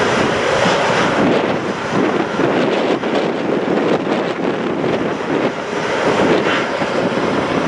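Steady, loud roar of military jet engines running at the airfield, with no clear rise or fall.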